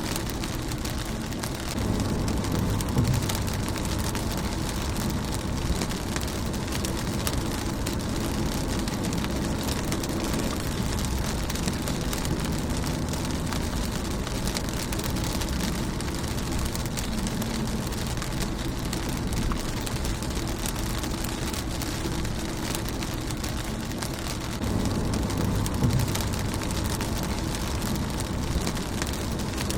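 Steady rain falling on a car's windscreen, an even patter of drops on glass and bodywork. A low rumble swells briefly about two seconds in and again near the end.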